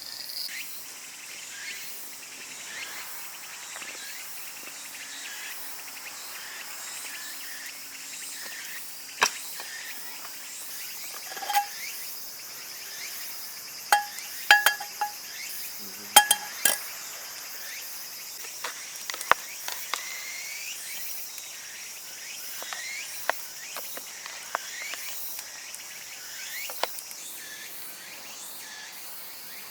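Insects chirping steadily at a high pitch, with a handful of sharp clinks and knocks in the middle, a few of them ringing briefly.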